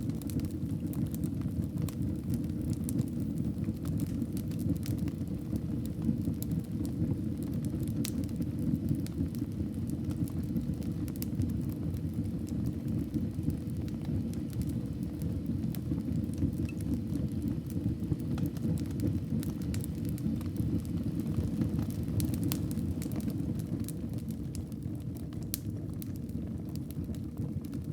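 Wood fire burning in a fireplace: a steady low rumble of the flames with scattered crackles and pops of the burning wood.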